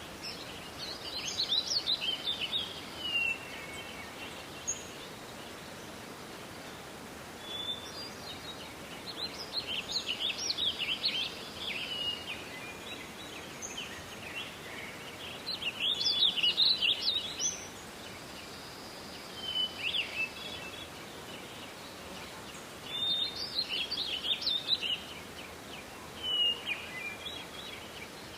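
A songbird singing short, jumbled phrases of quick high notes, each two to three seconds long and repeated every several seconds, with a few single short calls between them. Under it runs a steady faint hiss of forest ambience.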